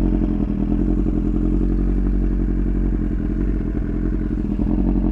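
Motorcycle engine running steadily while the bike is ridden at a constant pace, with no revving or gear changes.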